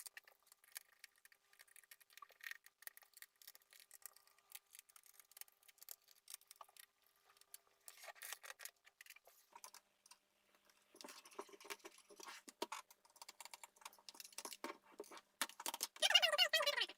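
Crosshead screwdriver working the screws out of a laptop's plastic bottom case: a run of faint clicks, ticks and scrapes, with a louder pitched creak about sixteen seconds in.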